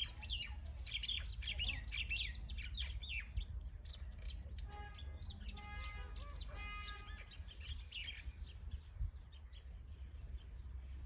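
Several birds chirping in quick, high, short calls, thickest in the first few seconds, with a longer, lower call with several overtones around the middle. A steady low rumble runs underneath.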